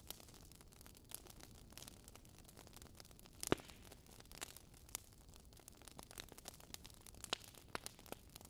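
Campfire crackling faintly: scattered sharp pops and snaps over a low hiss, the loudest pop about three and a half seconds in.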